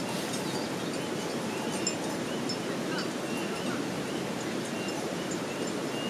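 Steady rushing water, an even noise with no change in level, with faint short high chirps scattered over it.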